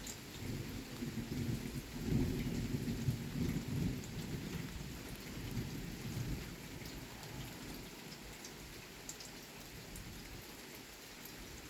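Steady rain with a low rumble of thunder that swells about two seconds in and dies away over the next few seconds, leaving the rain alone.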